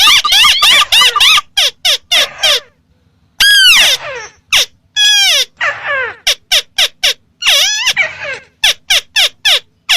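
Repeated calls of a ruddy-breasted crake (tikusan merah) played as a hunting lure. Quick runs of short sharp notes alternate with longer squawks that rise and then fall in pitch, in irregular bursts with brief pauses.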